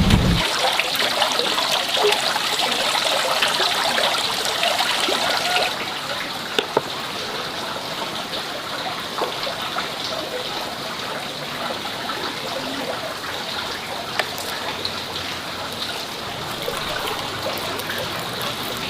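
Water trickling steadily, with a few faint clicks.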